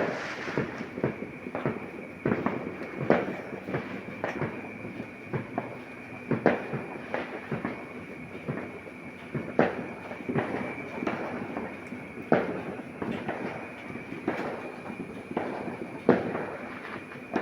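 New Year's firecrackers and fireworks going off, a dense, irregular crackle of pops with louder bangs every couple of seconds, over a steady high tone.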